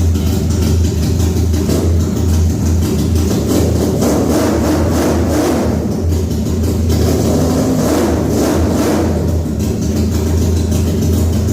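Home-made V4 engine, built from scrap-yard engines, running steadily with a low hum. It is revved up twice, about halfway through and again near the end.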